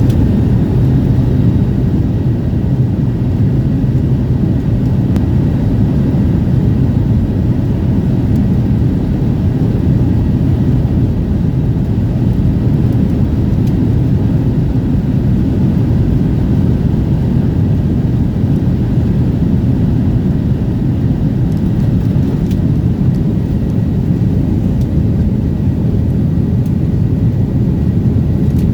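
Jet airliner cabin noise: the engines and airframe make a steady, loud low rumble, with a faint steady whine above it.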